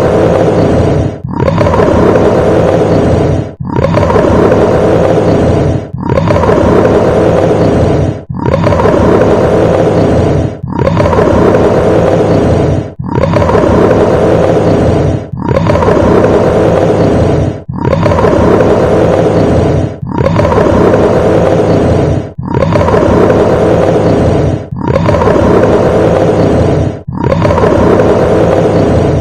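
A large animal's roar, the same roar repeated over and over, a new one about every two and a half seconds.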